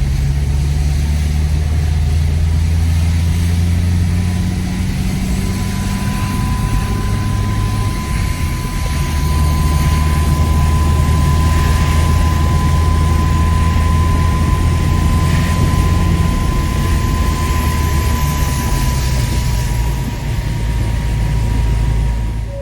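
Truck engine running steadily with a low drone, and a thin steady whine above it.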